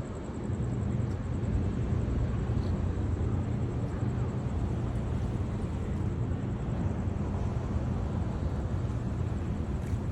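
A ferry's diesel engines running with a steady low rumble.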